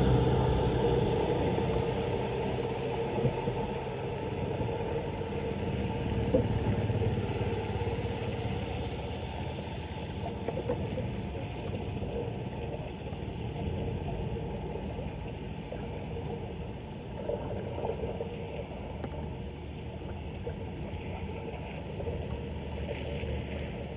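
Floodwater draining down a street storm drain: a steady low rushing rumble with a few small ticks, slowly easing off.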